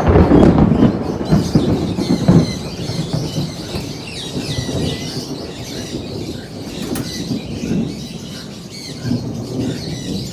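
A flock of lovebirds chirping all the way through, many short high calls overlapping. A loud burst of flapping and scuffling noise fills the first two seconds or so, then eases.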